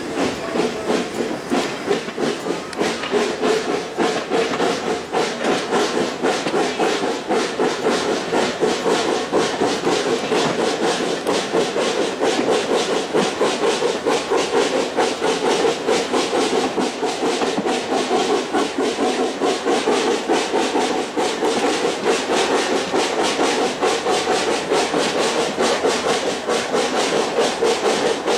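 Steam locomotive working steadily, its exhaust chuffs coming in a fast, even rhythm.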